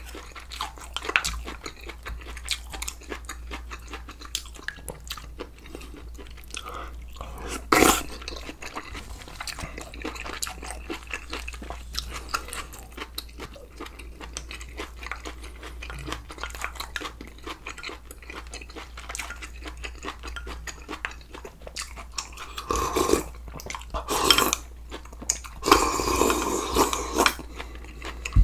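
Close-miked chewing and crunching of food, with many small wet clicks, one sharp louder bite or knock about eight seconds in and a run of louder eating sounds near the end.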